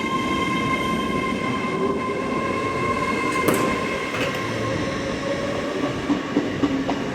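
Class 805 bi-mode train pulling out of a platform, with a steady high whine over the rumble of its wheels. A few clicks come near the end.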